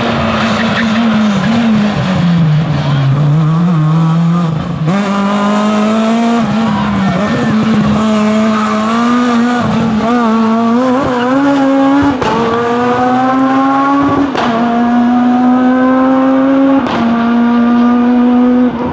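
Rally car engine running hard at high revs. Its pitch climbs and then steps several times as it changes gear under acceleration.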